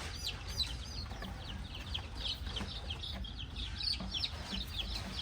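Many baby chicks peeping together, short high-pitched cheeps overlapping several times a second, over a low steady background hum.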